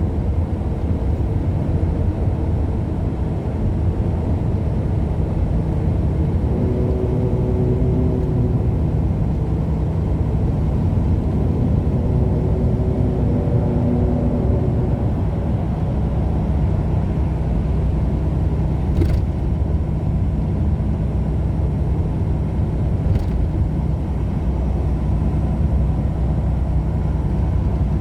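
Steady engine and road noise of a moving vehicle, heard from inside it, with two faint ticks late on.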